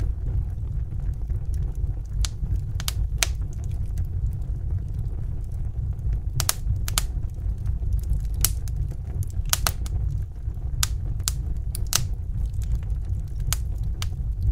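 Wood fire burning in a fireplace: irregular sharp crackles and pops over a steady low rumble of the flames, the pops coming thicker about halfway through.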